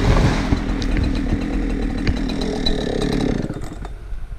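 Husqvarna chainsaw running at a steady low speed, then shut off about three and a half seconds in.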